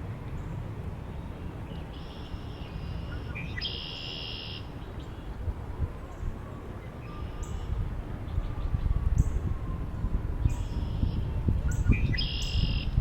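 Wild birds calling over a steady low rumble of wind. A longer, layered call comes about four seconds in and again near the end, with short chirps between.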